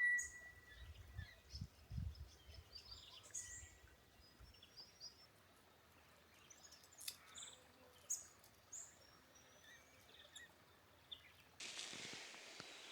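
Small birds giving short, scattered high chirps and whistles, faint against a quiet background. A few low bumps come in the first couple of seconds, and a steady hiss comes in near the end.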